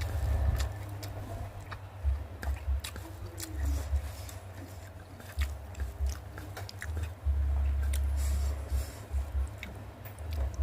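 Close-up chewing of fried fish and anchovies, with many sharp crunching clicks at an irregular pace. A low rumble comes and goes underneath.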